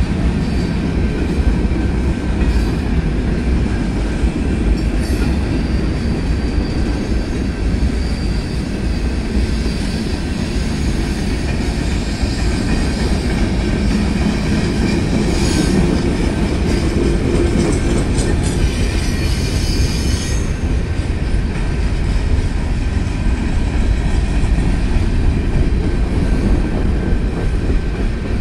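Freight cars of a Norfolk Southern freight train rolling past close by: a steady, loud rumble of steel wheels on the rails, with thin high-pitched wheel squeal through the middle stretch.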